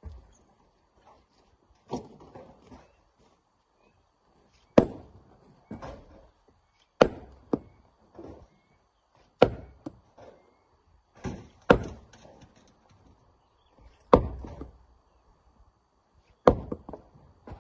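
Heavy knocks of manual rock work at a mine: sharp single impacts about every two to three seconds, around eight strong ones with lighter knocks in between.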